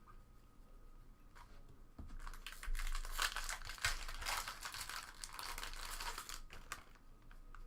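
Foil wrapper of a trading-card pack crinkling as it is torn open, a dense crackling that starts about two seconds in and stops shortly before the end.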